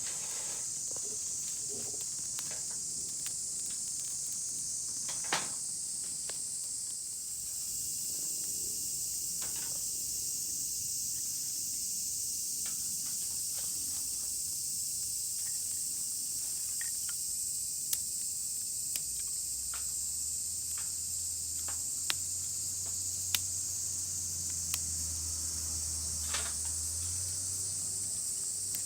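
A steady, high-pitched chorus of insects droning in forest, with scattered sharp clicks and snaps throughout and a faint low hum partway through.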